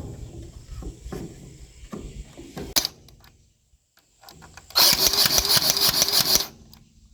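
A small motor runs in a loud burst of under two seconds, with a fast pulsing rattle, about five seconds in, after some knocks and a sharp click.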